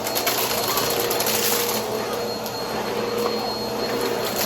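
Brushroll vacuum cleaner running steadily, a motor hum and whine over an airflow hiss, with scattered brief crackles as it picks up debris.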